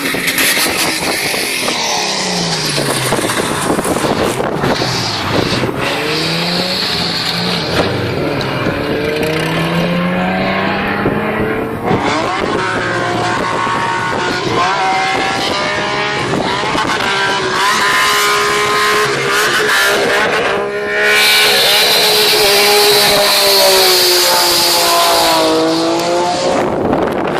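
Car engine revving hard and repeatedly, its pitch rising and falling, with tire squeal as the car drifts on a wet road. A louder hiss of tyres and spray comes in about three quarters of the way through.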